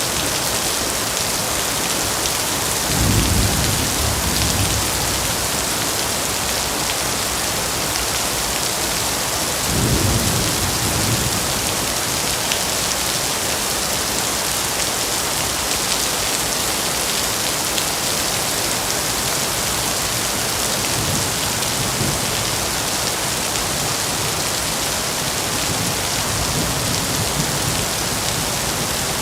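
Steady heavy rain with thunder rumbling low twice, about three and ten seconds in, and fainter rumbles later on.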